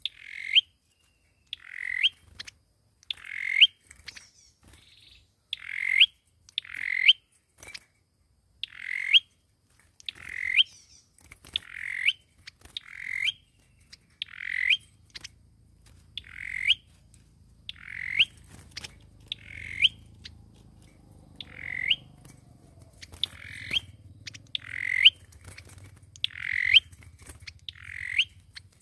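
A sâu dừa bird repeating a short, harsh call over and over, about one call every second or so, each ending in a sharp rising note. A faint low hum comes in about a third of the way through.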